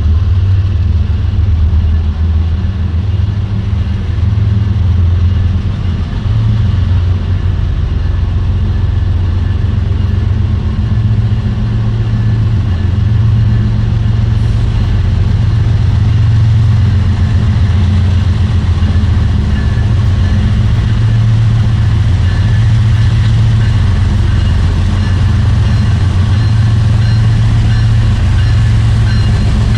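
Diesel-electric freight locomotives running with a steady, deep engine rumble as a BNSF freight train approaches.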